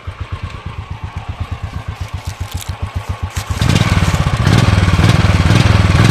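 Royal Enfield Classic 350's single-cylinder engine running through its stock factory silencer, first idling with even, regular pulses. About three and a half seconds in it is revved and becomes much louder, holding the higher revs.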